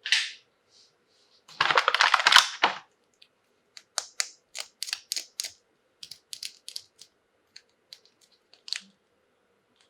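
Small plastic toy pieces and packaging being handled: a brief burst of crinkling, then a run of sharp, irregular clicks like plastic parts tapping together.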